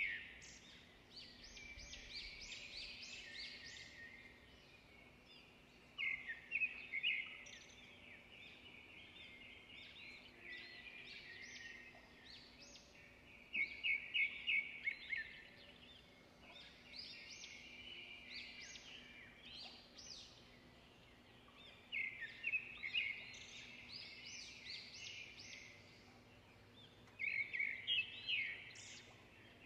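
Small birds chirping and twittering: bursts of quick high notes come in phrases every several seconds, with softer twittering in between.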